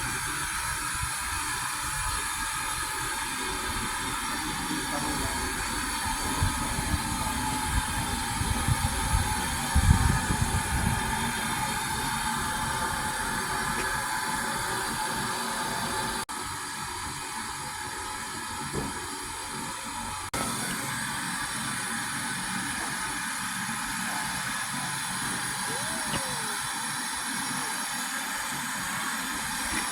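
Steam locomotive standing at a heritage railway platform, its steam hissing steadily, with a louder low rumble about ten seconds in.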